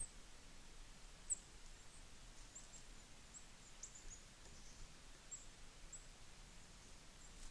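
Faint, high, thin chirps of small birds in a winter feeder flock, short calls scattered irregularly, over faint steady background noise.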